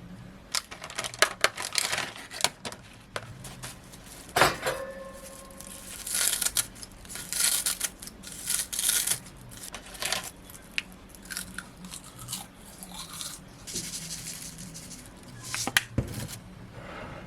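Kitchen handling sounds: packaging crinkling and tearing in irregular bouts, among scattered clicks and knocks. About four seconds in, a sharp clink rings on briefly, like a dish or utensil being struck.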